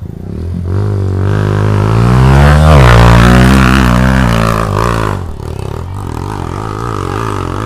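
Motorcycle engine revving hard on a hill climb, its pitch rising to a peak about three seconds in and then falling away, loudest at the peak, followed by a quieter steady engine drone.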